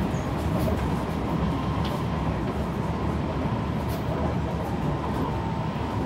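Kawasaki C151 electric train running along the track, heard on board: a steady rumble of wheels on rail with a faint steady whine and a couple of light ticks.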